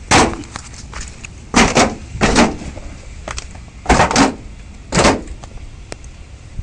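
A series of loud, sharp knocks, about five, several of them doubled, spread over several seconds.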